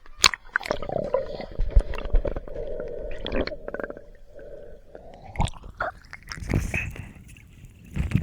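Water sloshing and gurgling close to the microphone, with scattered sharp clicks and knocks, as if the camera is moving in and out of the sea.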